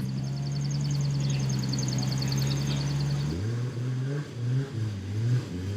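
Car engine running steadily, then revved in a quick series of short blips, each rising in pitch, starting about three seconds in.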